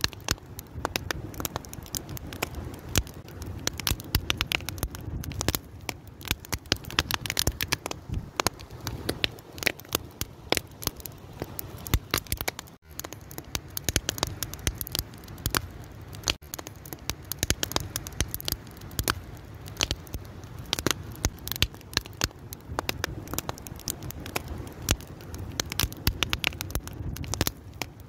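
Wood fire crackling, with many irregular sharp pops and snaps over a low rushing of the flames. The sound drops out for an instant about thirteen seconds in.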